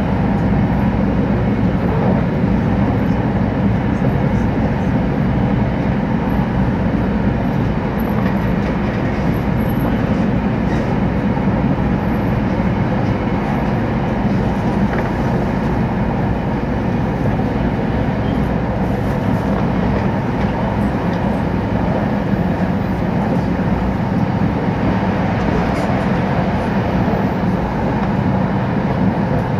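Inside the passenger cabin of an E2 series Shinkansen running at speed: a steady, even rumble of the train's running noise, most of it low in pitch.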